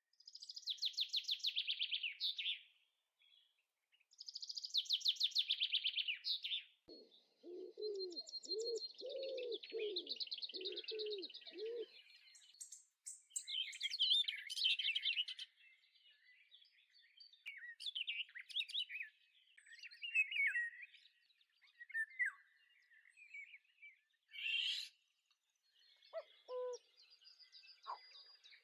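Birdsong: several birds chirping and trilling in quick, high runs, with a lower call repeated about eight times starting some seven seconds in.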